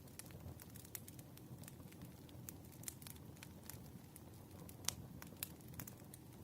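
Faint wood fire crackling: irregular small pops and snaps over a low steady rumble, the sharpest pop about five seconds in.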